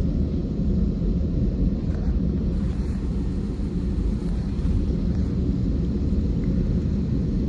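Steady low rumble of an Airbus airliner's jet engines and airflow, heard inside the passenger cabin.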